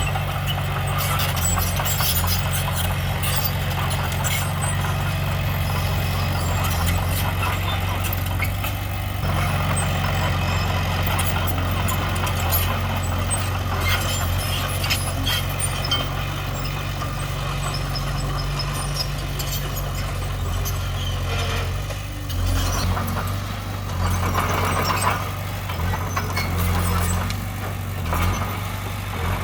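Heavy diesel earthmoving machinery working: a steady low engine drone, with frequent short metallic clanks and squeaks over it.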